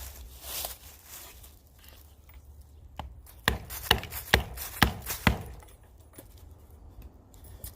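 Baton striking the spine of a pocket knife, driving the blade into a dead tree trunk: a run of about six sharp knocks, roughly two a second, starting about three seconds in.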